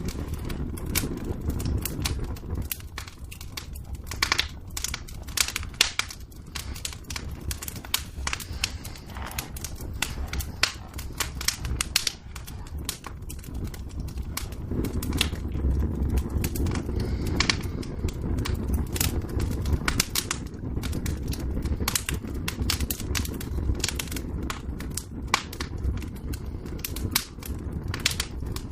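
Wood fire in a fireplace crackling and popping: a dense, irregular run of sharp snaps over a steady low rumble of the flames.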